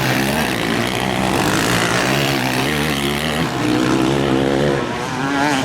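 Motocross bike engines racing on the track, several at once, their pitch rising and falling as the riders open and close the throttle.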